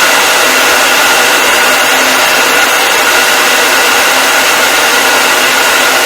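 Electric hair dryer running continuously: a steady rushing blow of air with a faint motor whine, unchanging throughout.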